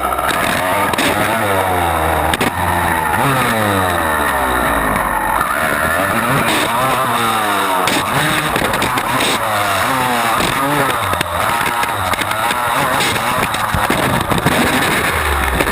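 Honda CR250 two-stroke dirt bike engine revving hard, its pitch climbing and dropping again and again as the rider accelerates and shifts through the gears.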